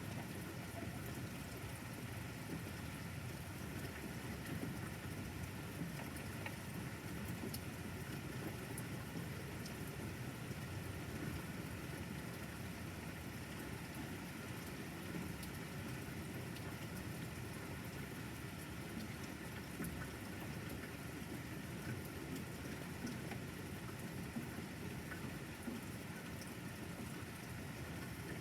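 Steady rain from a thunderstorm, an even hiss with scattered small drip ticks.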